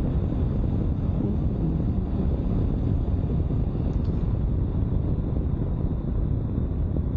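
Steady riding noise from a 2022 Honda CB500X under way: wind rushing over the microphone with the motorcycle's parallel-twin engine running underneath.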